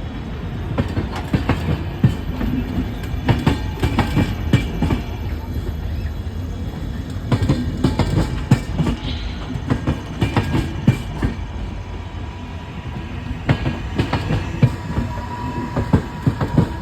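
Train of LHB passenger coaches rolling into a station: a steady rumble with repeated clusters of sharp clacks as the wheels pass over rail joints and points. A thin wheel squeal comes in near the end.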